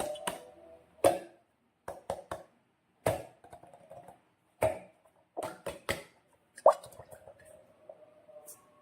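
Slime-making materials and balloons being handled: about a dozen sharp clicks and taps at uneven intervals, a few with a short rubbery squeak after them.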